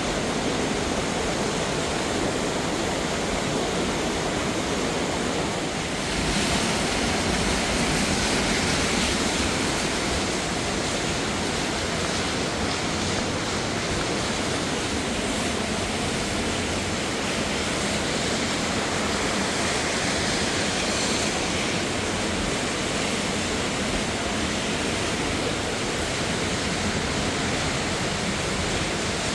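Waterfall cascading over rocks: a steady, full rushing hiss of falling water, a little louder about six seconds in.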